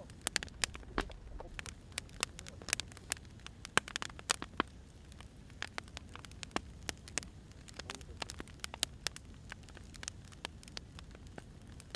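Wood fire burning, crackling with irregular sharp pops and snaps over a low steady rumble.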